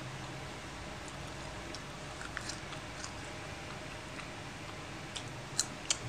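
A person chewing French fries, with scattered small mouth clicks and two sharper clicks near the end.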